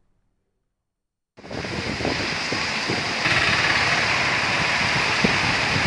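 Heavy rain pouring down on a street and water, a steady dense hiss with low rumbling underneath. It starts abruptly about a second and a half in, after a moment of silence, and grows a little louder about three seconds in.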